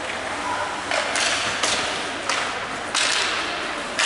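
About five sharp knocks, irregularly spaced, each trailing off in a brief hiss, over steady background noise.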